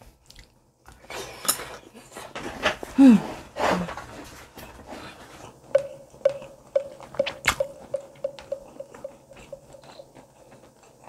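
Close-miked chewing and wet mouth sounds of someone eating spicy braised chicken, with a couple of short hummed 'mm' sounds. From about six seconds in, a regular ticking, about two ticks a second, runs alongside the chewing.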